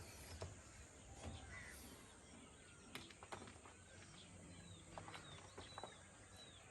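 Faint outdoor background with a few short, high, falling bird chirps, mostly in the second half.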